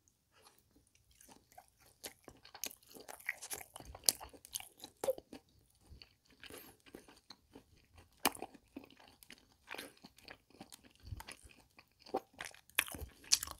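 A person chewing a mouthful of pork belly and kimchi from pork kimchi stew. The chewing starts about a second in and goes on as irregular short, sharp clicks of the mouth and food.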